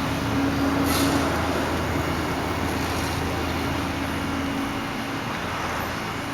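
Steady vehicle noise: a low engine hum over a wash of traffic noise, with the hum fading out about four and a half seconds in.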